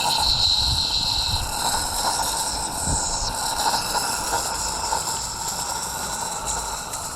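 Roundhouse Lady Anne live-steam locomotive running, with a steady hiss of steam and uneven low puffs in the first few seconds.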